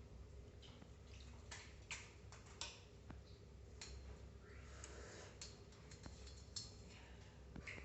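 Ringneck parrot drinking: faint, irregular beak clicks and taps at its water, with a couple of soft rustles.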